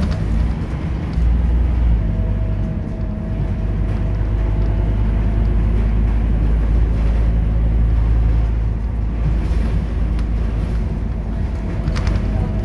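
Scania K230UB Euro 4 city bus engine running under way: a steady low drone that steps up in loudness about a second in, with a faint steady whine above it through the middle.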